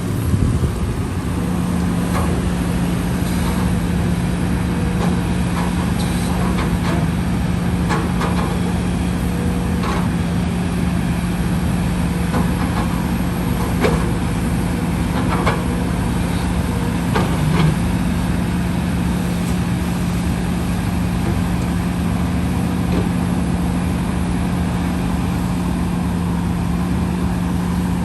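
Heavy earthmoving machine's engine running steadily, with a few short sharp knocks scattered through.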